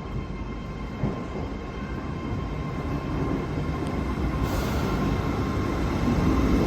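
A train moving through a station, its low rumble growing louder, with a steady whine and a brief hiss about four and a half seconds in.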